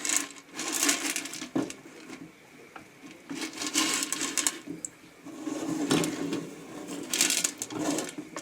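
Unpopped popcorn kernels rattling and scraping in the metal pan of a Whirley Pop stovetop popper, in several irregular bursts.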